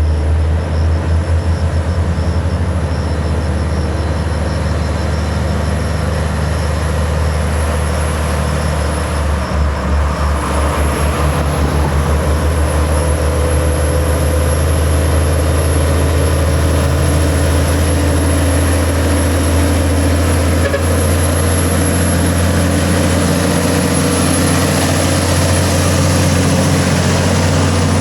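Heavy diesel truck engine labouring as it crawls up a steep climb: a loud, deep, steady drone whose slow firing pulses come through plainly about ten seconds in. A thin steady high whine sits over it throughout.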